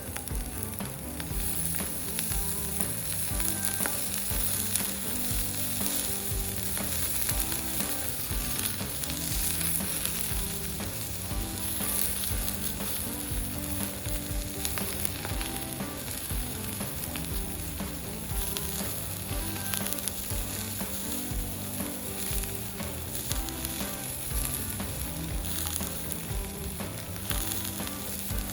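Meat sizzling and frying on an iron steak plate, a steady hiss scattered with frequent small pops.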